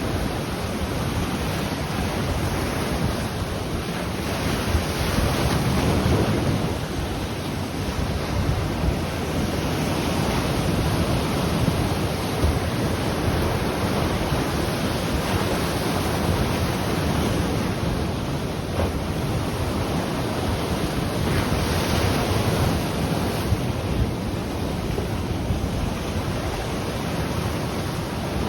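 Ocean waves breaking and washing on a shore in a steady continuous rush that swells gently now and then, with wind buffeting the microphone.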